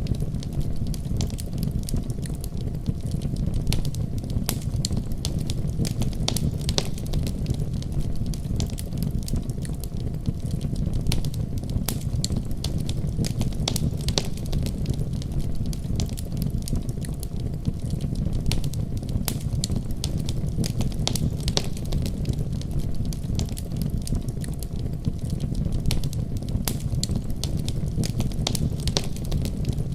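Fire in a fireplace crackling steadily, with frequent sharp irregular pops and snaps over a continuous low rumble.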